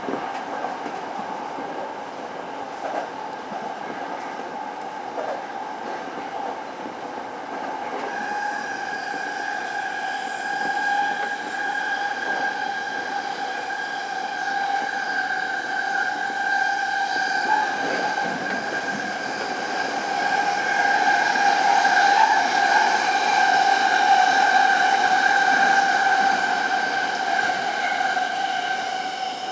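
Toyo Rapid Railway 2000 series electric train running, heard from the cab. A steady high whine strengthens about eight seconds in, and the sound gets louder again about twenty seconds in as the train enters the tunnel.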